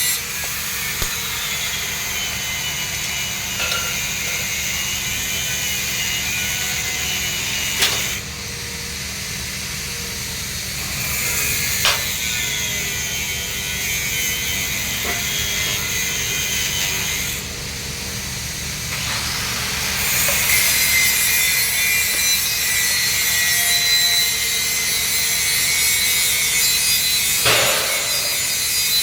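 Arc welding on a 3-inch schedule 80 steel pipe joint: a steady hiss with a few sharp clicks over a low electrical hum, the hiss dropping away twice for a couple of seconds.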